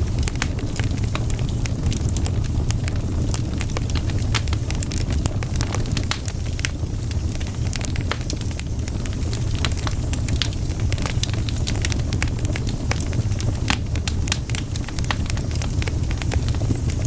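Wood fire burning and crackling: frequent irregular sharp pops and snaps from the burning logs over a steady low rumble.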